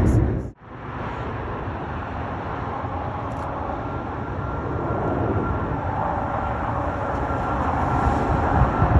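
Jet airliner engines, a steady rumbling roar that grows gradually louder, with a whine coming in over the second half as the aircraft draws nearer. The sound drops out briefly about half a second in.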